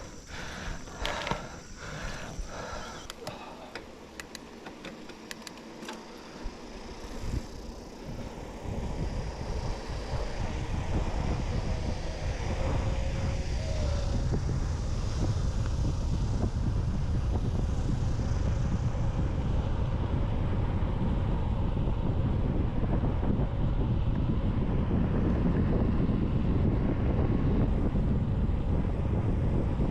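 Mountain bike riding on a forest road: a few sharp clicks in the first seconds, then steady low wind rumble on the microphone and tyre noise building up as the bike gathers speed.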